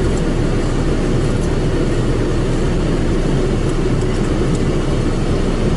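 Automatic car wash machine working over a car, heard from inside the cabin as a steady, even rumble.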